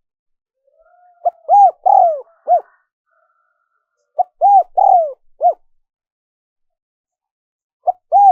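Spotted dove cooing: two full phrases, each a short note, two drawn-out arching coos and a short closing note, with a third phrase starting near the end.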